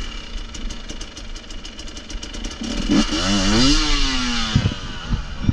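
Off-road motorcycle engine running low, then revving up sharply about three seconds in and dropping back, with a rush of noise alongside the rev and a couple of knocks near the end.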